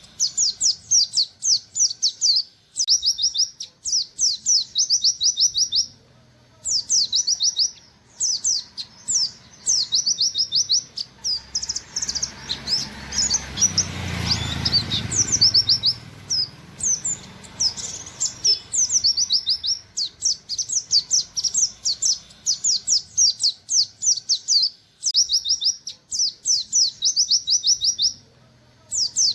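Oriental white-eye (pleci) singing its rapid 'nembak' song: fast runs of high, falling 'wit wit' notes in bursts of a second or two, separated by short pauses. A low rushing noise swells and fades around the middle.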